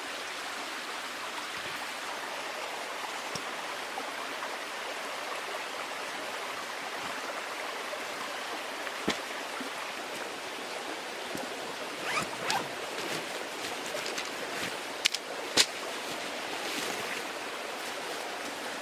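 A small stream flowing steadily. A few sharp clicks or knocks sound over it: once about halfway through, then a pair about two-thirds in and another pair shortly after.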